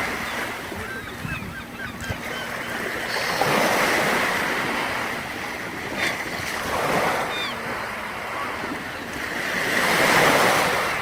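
Sea surf washing on the shore, swelling and ebbing in slow surges, with the waves peaking about four seconds in, around seven seconds, and again near the end.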